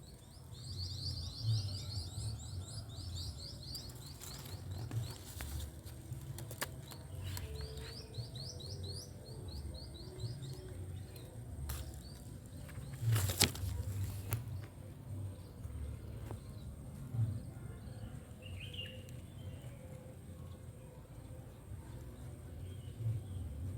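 A small wild bird singing in fast trills of short, high chirps, in two runs during the first ten seconds. A steady low rumble runs underneath, and there is one sharp click about thirteen seconds in.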